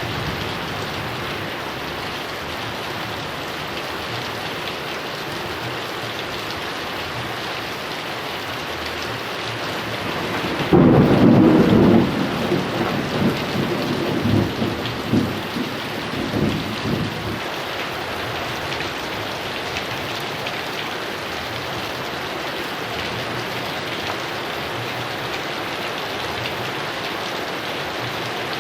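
Heavy rain falling steadily, with a thunderclap about a third of the way in that rolls on as rumbling for several seconds before fading back into the rain.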